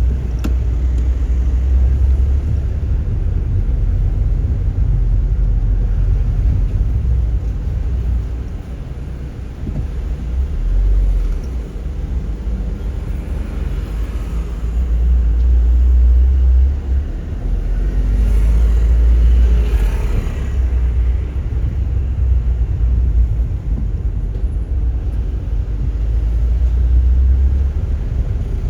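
Car driving on the road, heard from inside: a steady low rumble of engine and tyres. A louder rush of noise rises and fades about two-thirds of the way through.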